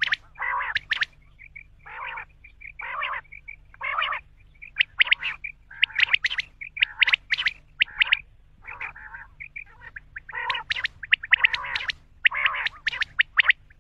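Common quail calling over and over: short harsh rasping notes alternating with quick runs of sharp, high clicking notes, several a second.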